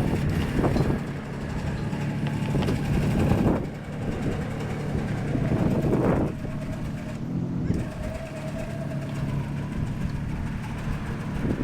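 A vehicle engine running steadily, with louder swells about three and six seconds in.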